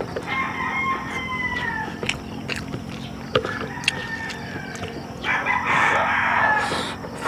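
Rooster crowing several times, the loudest crow about five seconds in, with a couple of sharp clicks in between.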